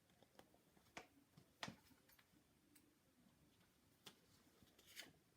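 Near silence broken by a handful of faint, short clicks and light rustles from a picture book's pages being handled.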